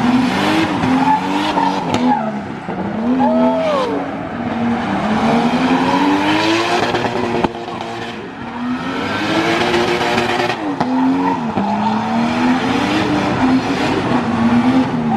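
Drift car engine revving hard, its pitch rising and falling again and again, with tyres squealing as the car is drifted.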